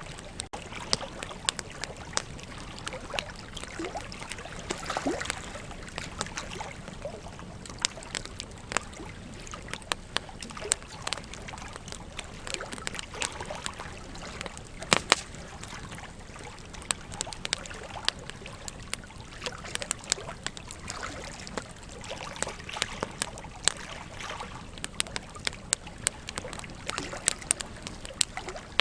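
Burning wood in a campfire crackling and popping irregularly, with a couple of louder pops about halfway, over the steady rush of a flowing river.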